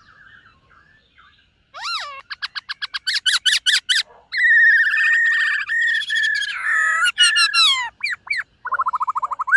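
Black-throated laughingthrush singing. After a quiet start it gives a fast run of short repeated notes, then long clear whistled phrases and a last string of quick notes.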